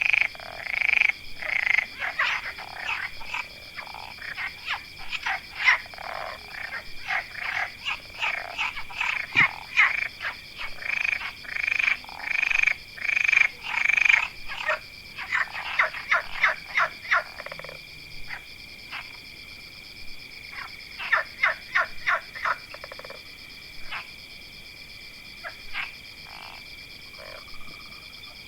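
Frogs croaking in a chorus: rapid, overlapping calls for the first two-thirds or so, thinning to scattered croaks after that, over a steady high-pitched trill.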